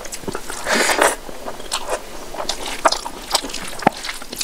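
Close-miked chewing and wet mouth sounds of a mouthful of rice and curry eaten by hand, with a string of sharp smacks and clicks and a louder burst about a second in.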